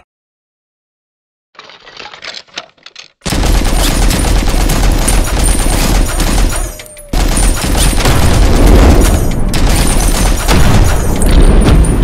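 Sound-effect machine-gun fire. A few faint clicks come first, then a long, loud burst of automatic fire starts about three seconds in, drops away briefly around the middle, and resumes.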